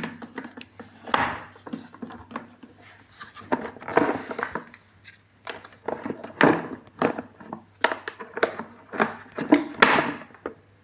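Irregular clicks, knocks and brief rustles from the plastic body and parts of a vacuum cleaner being handled, over a faint steady low hum.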